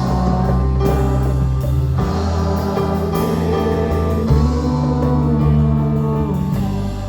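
Worship band playing a Spanish-language praise song: a voice holds the last sung word, 'canta', about a second in, then guitar, bass and drums carry on with sustained chords that change about every two seconds, easing off slightly near the end.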